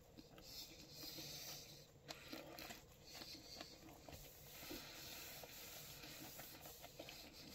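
Faint chewing of a mouthful of pizza, a few soft clicks scattered over a low hiss.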